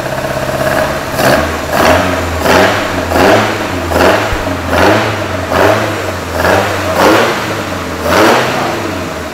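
Freshly rebuilt Lancia Fulvia 1600 narrow-angle V4 engine running on its first start after restoration, revved in short repeated throttle blips, about ten of them, one every three-quarters of a second or so.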